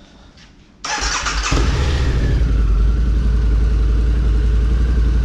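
Harley-Davidson V-Rod Muscle's liquid-cooled V-twin starting on its stock exhaust: about a second in the starter cranks briefly, then the engine catches and settles into a steady idle. The owner finds the stock exhaust too quiet.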